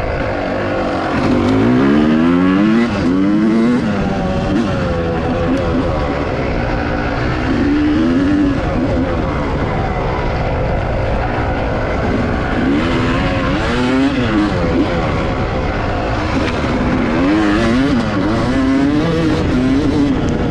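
Dirt bike engine being ridden on a trail, its pitch climbing and dropping again and again as the throttle is opened and eased off through the gears.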